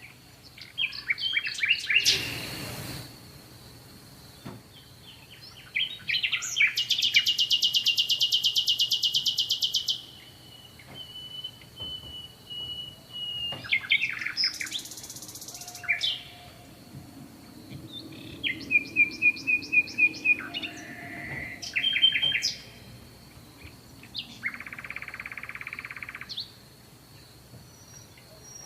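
Songbirds singing and chirping in a series of separate whistled and buzzy phrases, with a long, very fast high trill about six seconds in that lasts some four seconds. A faint steady high tone runs underneath.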